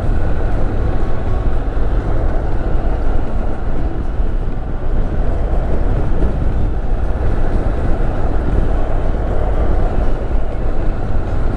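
Motorcycle under way at a steady pace: a steady, loud engine and wind rush with no break or change.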